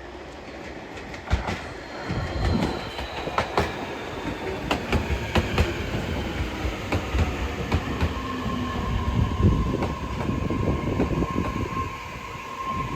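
Electric commuter train moving through the station, its wheels clicking over the rail joints, with a motor whine that falls in pitch as it slows and a steady squealing tone in the second half.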